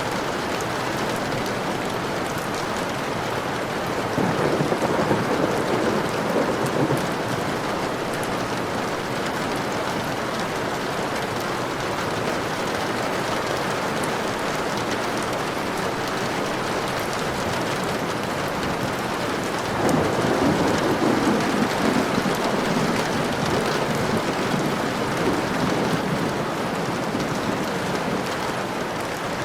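Steady rain falling, with two rolls of thunder: a short one about four seconds in and a longer one about twenty seconds in.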